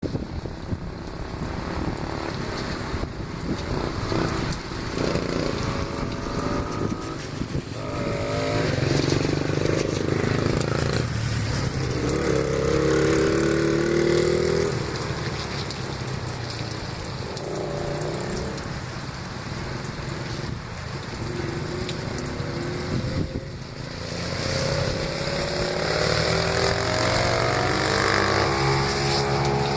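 Dirt bike engine running and revving, its pitch rising and falling several times, loudest from about a quarter of the way in to the middle and again near the end.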